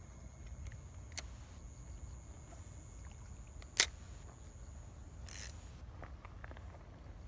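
Low wind rumble on the microphone, with a few sharp clicks: a small one about a second in and a loud one just past halfway, plus a brief hiss about two thirds of the way through.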